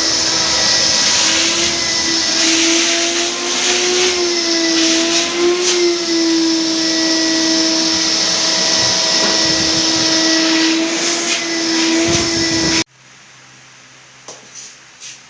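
A high-speed electric power tool motor running steadily with a whine over a hiss, its pitch dipping slightly now and then as if under load, cutting off suddenly about thirteen seconds in.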